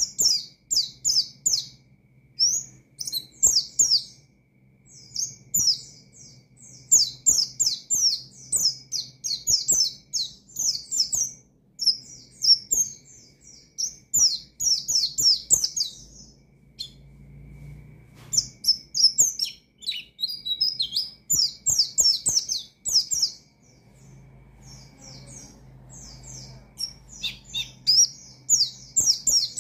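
White-eye (pleci) singing a rapid, high chattering song: long runs of quick chirps with short pauses about 4 s and 17 s in.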